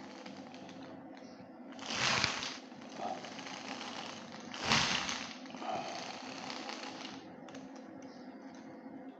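Small electric motor of a model helicopter running steadily, with two brief louder rushes of noise about two and five seconds in.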